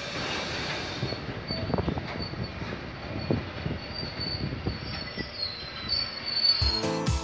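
Freight train of tank wagons rolling past, wheels knocking over rail joints with a thin high squeal from the wheels on the rails. Electronic music with a beat starts near the end.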